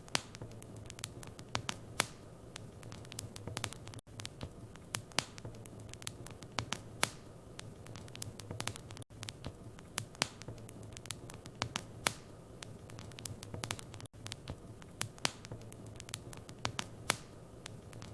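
Wood fire crackling in a fireplace: irregular sharp pops and snaps over a steady low rumble, with a brief dropout about every five seconds.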